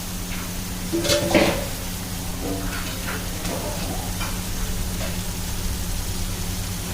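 Food frying and sizzling in a large biryani pot while it is stirred, with a louder clatter of the utensil against the pot about a second in, over a steady low hum.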